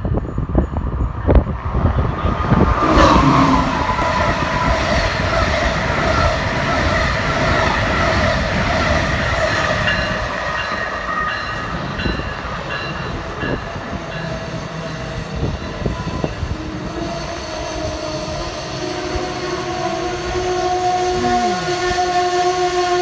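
Amtrak Northeast Regional train's Amfleet coaches rolling along the platform: loud rumble of wheels on rail with high ringing tones over it. About two-thirds of the way in it settles to a steadier hum with held tones.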